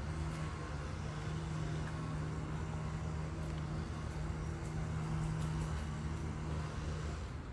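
A steady low mechanical hum that fades away near the end.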